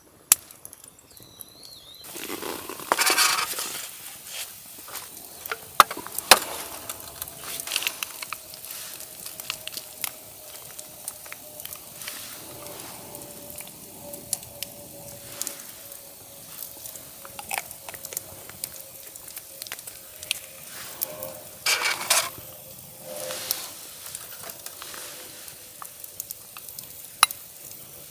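Wood campfire crackling and hissing, with sharp pops throughout and a faint thin whistle that slowly drops in pitch. There are two louder rushes of noise, about three seconds in and around twenty-two seconds.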